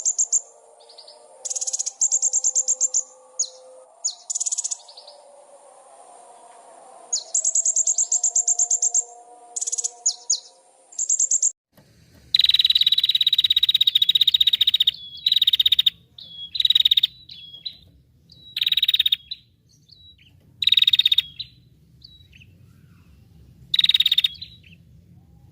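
Small songbirds singing, from two different recordings. First come rapid, high trills in short bursts over faint background chirping. After an abrupt change about twelve seconds in, loud buzzy calls follow, the first lasting about three seconds and the rest shorter, over a low hum.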